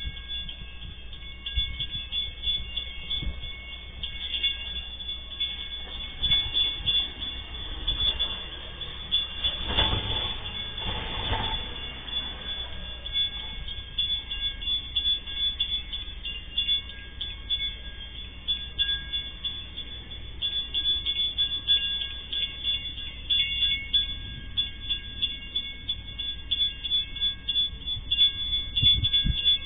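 Diesel freight locomotive rumbling steadily as the train approaches a level crossing, with a car passing over the crossing about ten seconds in. Steady high-pitched tones run in the background.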